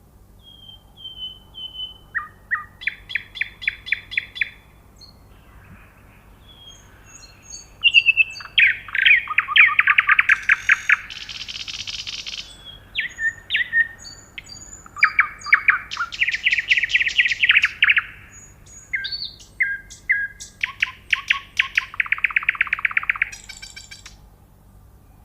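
Nightingale singing: a series of song phrases, each a fast run of repeated notes, separated by short pauses, with a brief buzzy rasp a little before the middle.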